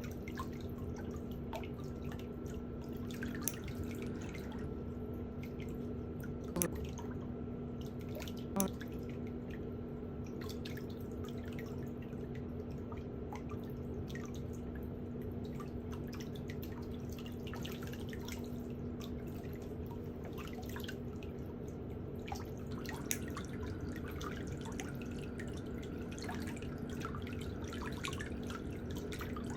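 Small pedicure hand tools ticking and clicking against a toenail in irregular, scattered strokes, over a steady low hum. Two sharper clicks come about seven and nine seconds in.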